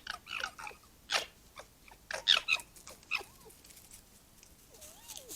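Foxes calling: a run of short, high squealing cries in the first three seconds or so, then a faint wavering whine near the end.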